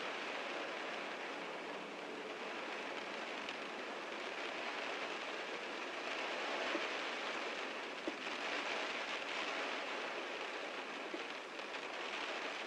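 Heavy rain falling on a car: a steady, even hiss of rain with a few louder single drop ticks standing out.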